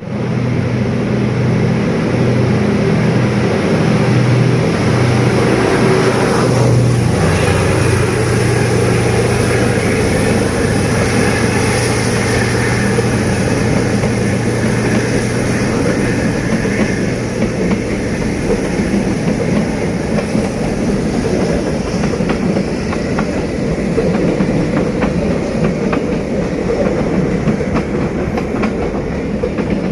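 D19E diesel-electric locomotive running past with its engine drumming steadily, then the coaches it hauls going by with wheels clattering over the rail joints, the engine fading out about two-thirds of the way through.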